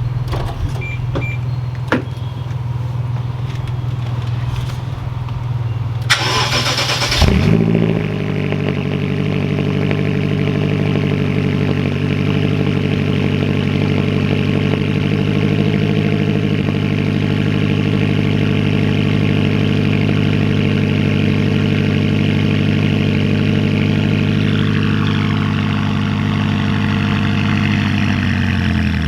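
2011 BMW X5M's twin-turbo V8 cold start: a brief burst of starter cranking about six seconds in, then the engine catches and settles into a steady high cold idle. The idle begins to drop near the end.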